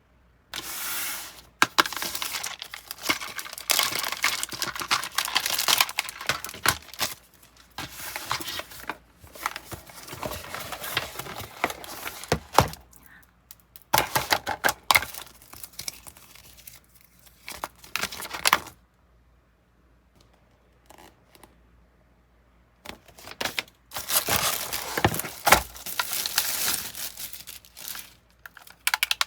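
Packaging being torn open and crinkled by hand, in loud bursts with short pauses and one quiet gap of a few seconds about two-thirds of the way through.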